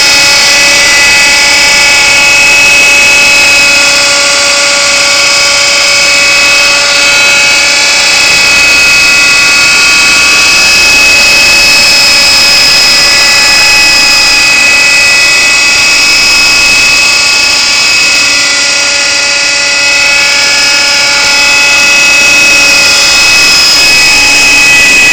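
Kyosho Nexas 30 radio-controlled helicopter's two-stroke glow engine and rotor running in flight: a loud, high-pitched whine that holds close to one pitch, dipping and rising slightly now and then.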